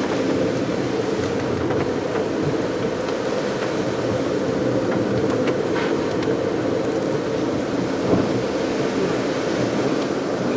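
Steady driving noise of a car on a wet road: tyre roar and engine running evenly, with a few faint ticks.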